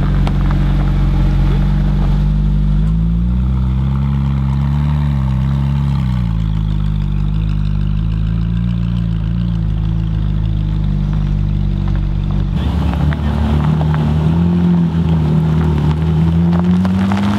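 Ferrari 458 Italia's naturally aspirated V8, tuned and remapped, running at low revs as the car moves off slowly, its note rising and falling briefly a few seconds in. About two-thirds through the sound changes abruptly to the same engine pulling at low revs again, rising near the end.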